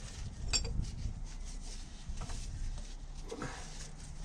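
Handling and rubbing noise with a small metallic clink about half a second in and a fainter click near two seconds, followed by a brief low voice-like sound.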